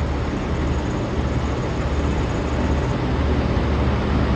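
Mercedes-Benz Actros 2733 truck's diesel engine running steadily with a deep drone, gradually getting louder.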